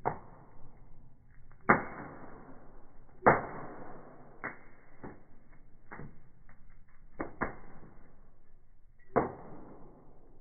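Wood fire crackling in a fireplace: a string of sharp pops, each trailing off, the loudest about 2 and 3 seconds in and another near 9 seconds.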